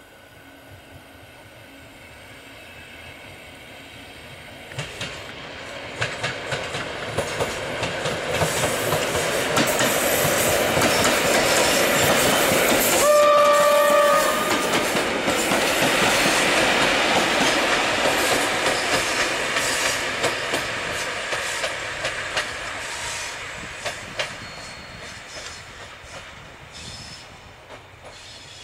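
An EN57 electric multiple unit passing: the noise builds as it approaches, with regular clicks of the wheels over rail joints, peaks as it goes by, and fades as it draws away. About halfway through it gives one short horn blast lasting about a second.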